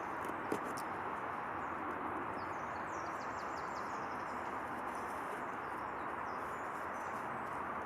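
Outdoor ambience: a steady rushing hiss with small birds chirping faintly above it, and a single short click about half a second in.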